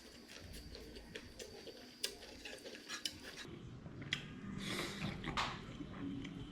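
Faint, scattered clicks and light clinks of dishes and utensils being handled, with some soft rustling about five seconds in.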